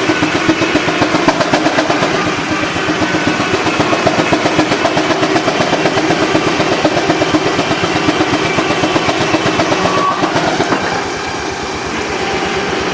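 Steam traction engine running with its exhaust beating in a rapid, even rhythm, several beats a second, easing off near the end.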